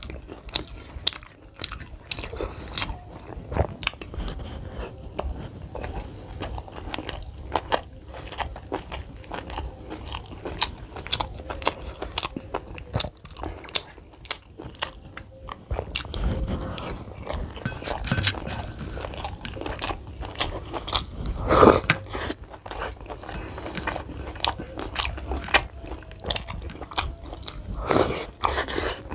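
A person eating momos dipped in chutney close to the microphone: chewing with many sharp, wet mouth clicks and bites. There is one louder burst about three-quarters of the way through.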